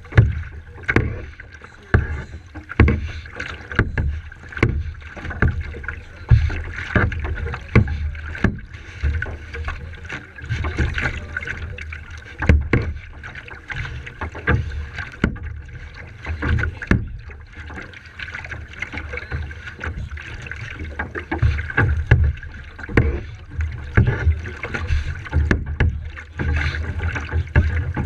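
Kayak paddling on the water: paddle strokes splash about once a second over a steady low rumble.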